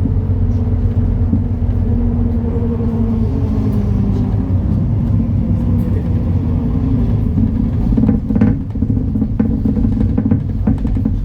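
Engine of a MAN Lion's City NL293 city bus running while under way, a steady low rumble whose pitch slides down a few seconds in. A few short knocks come about eight seconds in.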